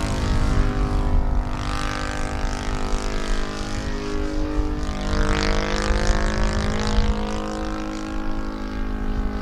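Saito FG-50 four-stroke gasoline engine running on a flying model aerobatic airplane, its pitch rising and falling twice as the plane manoeuvres and passes.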